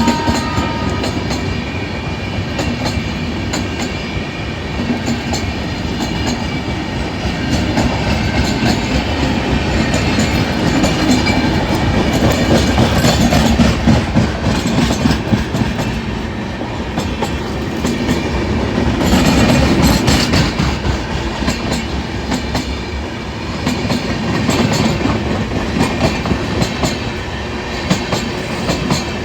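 Passenger express train coaches rolling slowly past at low speed, the wheels clattering steadily over the rail joints, swelling and easing a little as the cars go by.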